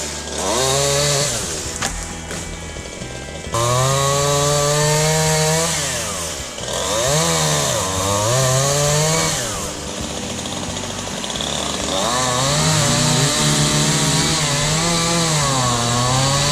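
Chainsaw cutting into downed timber, its engine revving up and down again and again under load, with brief drops in speed about six and ten seconds in.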